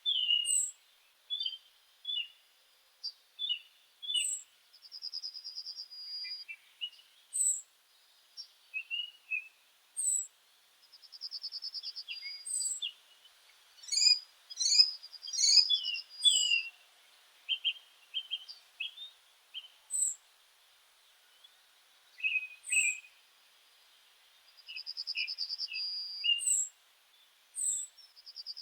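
Several birds singing and calling together. A high trill lasting about a second recurs every few seconds, among thin high single notes and chirps, with a busier run of rapid notes around the middle.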